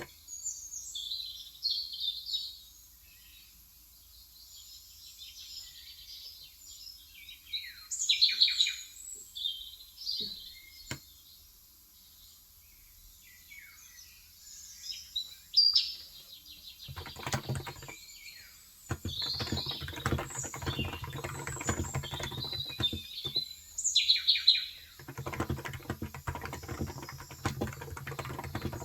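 Small birds chirping and tweeting on and off. About halfway through, typing starts on a Cox Endeavour electro-capacitive keyboard with 35 g switches: three runs of fast keystrokes with short pauses between them.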